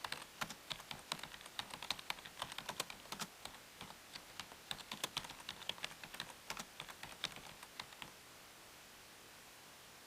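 Faint keyboard typing: rapid, irregular key clicks that stop about eight seconds in.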